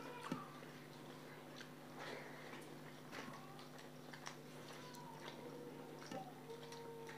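Quiet chewing with small scattered clicks of a person eating rice by hand, over a steady low hum.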